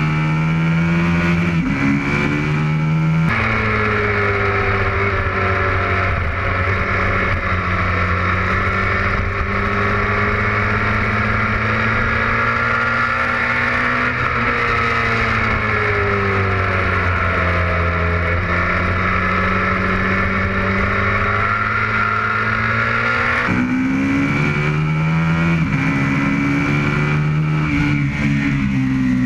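Aprilia RSV Mille's V-twin engine at racing speed, its pitch climbing in steps through quick upshifts at the start and again near the end. In between, after an abrupt change about three seconds in, an engine drone holds steadier for about twenty seconds, its pitch slowly sagging and rising.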